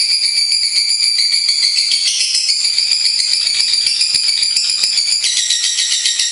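Lovebird giving a loud, rapid, high-pitched chattering trill without a break, its pitch shifting about two seconds in and again near five seconds.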